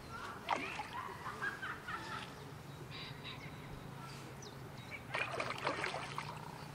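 Birds calling in two short flurries, one about half a second in and another about five seconds in, over a steady low outdoor background.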